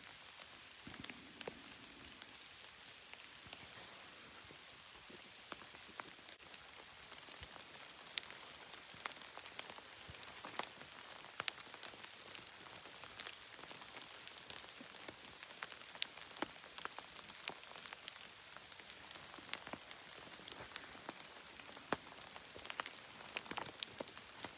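Steady rain falling, a soft even hiss with many separate drops ticking sharply, the ticks coming more often after about eight seconds.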